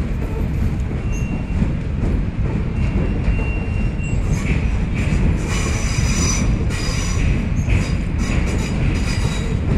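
Southeastern electric passenger train running slowly over a steel truss railway bridge, with a steady heavy low rumble. From about halfway through, its wheels squeal in high-pitched tones that come and go.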